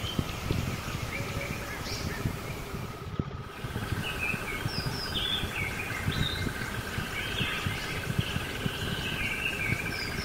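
Birds chirping, short calls repeating over a steady background of outdoor noise.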